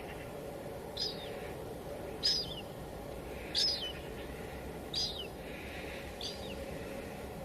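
Steady hiss of light drizzle on a window, with a bird repeating a short, high call with a falling tail five times, about every second and a half.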